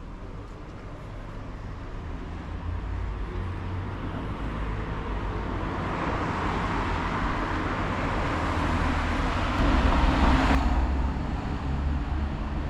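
A motor vehicle passing close by: a low engine rumble with tyre hiss that builds steadily, is loudest about ten seconds in, then drops away sharply.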